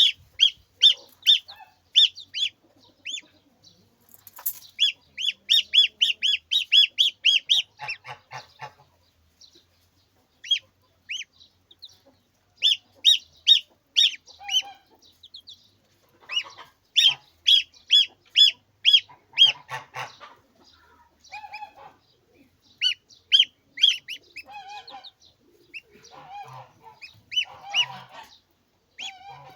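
Poultry calling: runs of short, high-pitched calls repeated about three times a second, with lower honk-like calls joining in, more of them in the second half.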